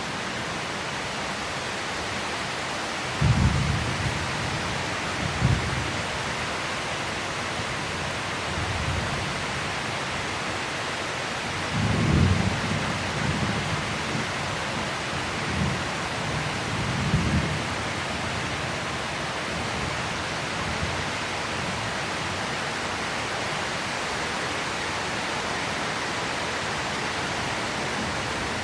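Steady heavy rain with thunder rumbling: a low rumble about three seconds in, and a longer, rolling one from about twelve to seventeen seconds.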